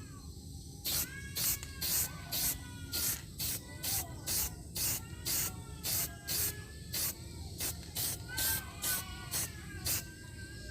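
Rhythmic hissing strokes, about two a second, of a newly made machete blade being sharpened or finished by hand with an abrasive, with fainter gliding chirp-like tones between the strokes.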